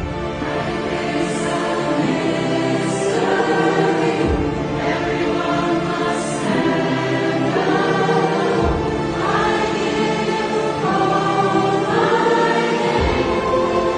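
Background music: a choir singing long, sustained chords, with a soft low beat about every four seconds.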